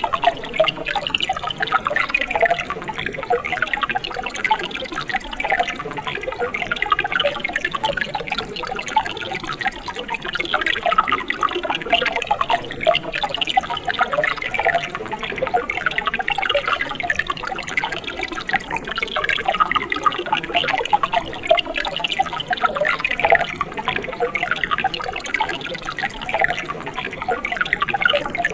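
Mountain stream water splashing and burbling steadily over rocks, a constant gurgling wash with many small drips and splashes and no pauses.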